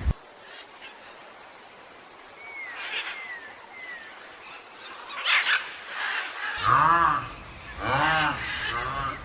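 Rhinoceros calling: three loud drawn-out cries, each rising then falling in pitch, starting about two thirds of the way in. Before them, birds chirp faintly.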